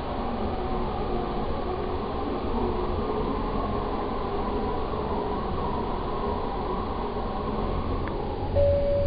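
Passenger train running on the rails, a steady rumble with faint whining tones; near the end a steadier whine comes in and the rumble grows louder.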